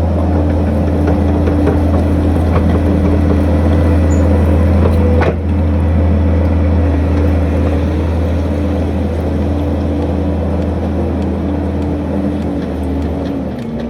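Skid steer loader's engine running steadily at a constant speed, with a single sharp click about five seconds in. The engine's pitch drops slightly near the end.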